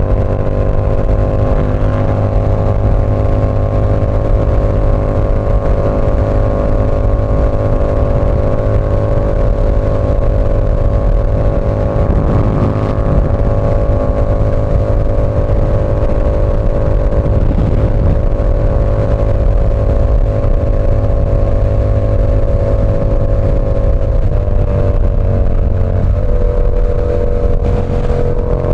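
Yamaha R7's 689 cc parallel-twin engine through an SC Project CR-T exhaust, held at a steady cruising engine speed over a strong low rumble. Near the end the engine note drops slightly and settles lower.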